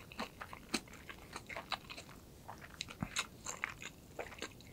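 A person chewing a mouthful of rice rolled in gim (dried laver) with kimchi, close to the microphone: soft, irregular crunching clicks.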